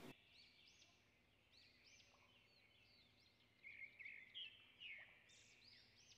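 Faint bird chirping in the background, many short quick chirps, a little louder about four to five seconds in; otherwise near silence.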